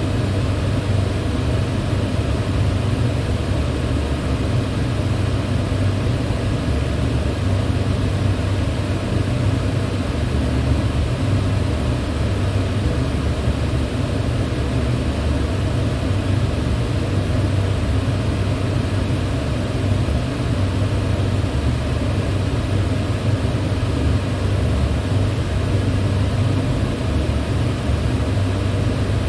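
Electric fan running steadily: a low motor-and-blade hum with an even airy hiss over it, unchanging throughout.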